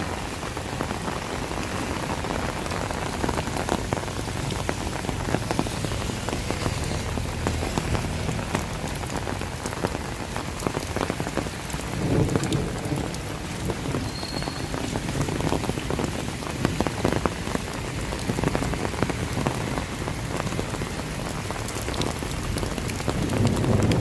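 Steady rain falling, with many sharp close drop hits. A low rumble swells up about a quarter of the way in and again around halfway, and grows near the end.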